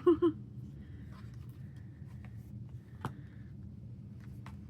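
Album photocards and inserts being handled: small paper and card clicks, with one sharper click about three seconds in, over a steady low room hum.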